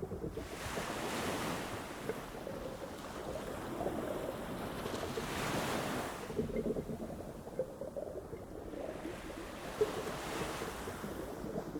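Ocean waves breaking and washing up a sandy beach. The surf swells three times, every four to five seconds, over a steady rush of water.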